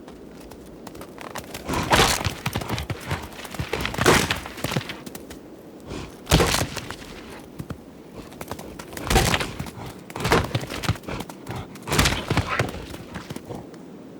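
Bighorn rams clashing horns in rut fights: a series of sharp, loud head-on cracks, roughly one every two seconds, with smaller knocks between.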